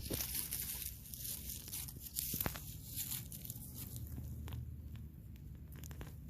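Irregular crunching, tearing and rustling with a few sharp clicks, as of soil and potato plants being dug and pulled up by hand.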